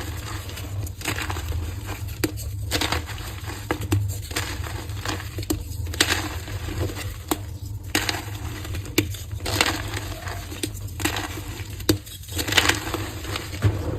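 Coloured gym chalk pressed into heart shapes being broken and crushed, giving repeated crunching and crumbling with sharp crackles at irregular intervals over a low steady hum.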